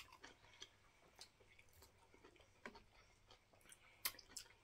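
Faint, sparse mouth sounds of eating fufu with soup: quiet chewing and soft wet clicks, with one sharper click about four seconds in.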